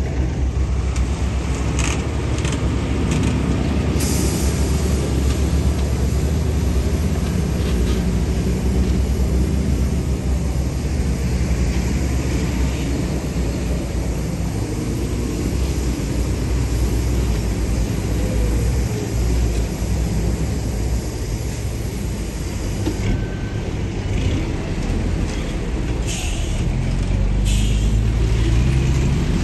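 Radio-controlled bulldozer running: a steady low rumble, with a few short clicks and knocks.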